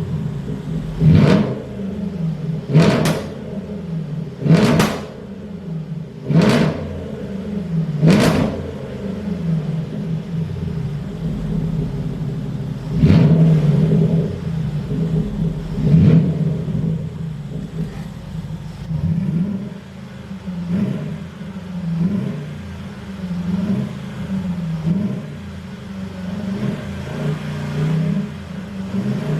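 Range Rover Vogue engine through a custom variable-valve exhaust being free-revved at a standstill: a run of five sharp throttle blips about every two seconds, two longer revs, then lighter, quieter revs near the end with the exhaust valve closed.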